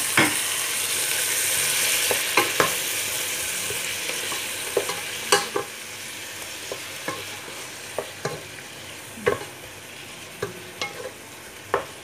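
Chicken pieces, onion and freshly added tomato sizzling in a pot while a wooden spatula stirs them, with sharp knocks and scrapes of the spatula against the pot. The sizzle is loudest at first and dies down gradually.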